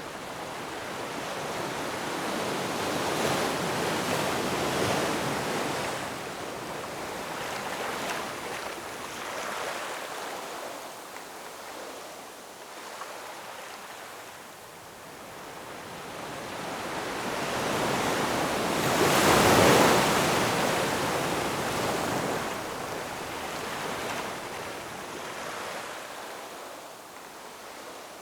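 Ocean waves breaking and washing ashore, a steady rush that swells and ebbs, with one larger wave cresting about two-thirds of the way through.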